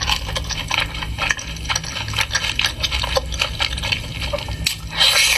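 Close-up wet chewing and lip-smacking of someone eating pork ribs, many quick moist clicks, with a louder noisy burst near the end.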